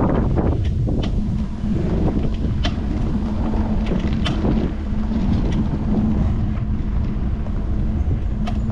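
Wind rushing over a handlebar-mounted action camera's microphone on a moving bicycle, with a heavy low rumble, a steady low hum, and scattered small clicks and rattles from the bike and mount.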